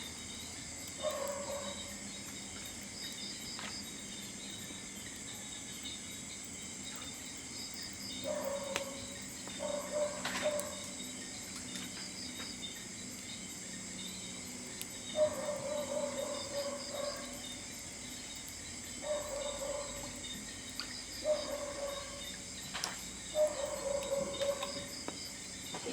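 Insect chorus shrilling steadily in several high tones, with short mid-pitched calls breaking in every few seconds and a few faint clicks.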